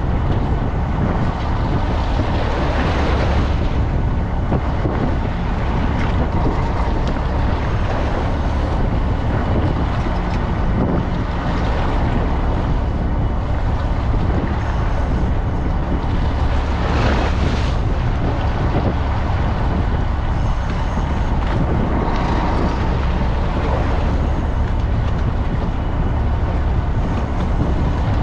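Fishing boat's engine running steadily with a low hum, with wind buffeting the microphone and water rushing along the hull; the wind surges briefly a few times.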